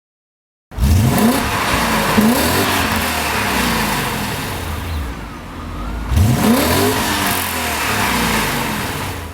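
BMW E39 M5's V8 exhaust being revved: three sharp revs, the first two close together and the third after a lull, each rising quickly in pitch and falling back to a lower running note.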